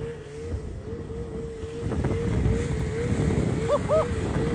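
A motor running with a steady, slightly wavering whine over a low rumble and wind buffeting the microphone, growing louder about halfway through. Two short cries near the end.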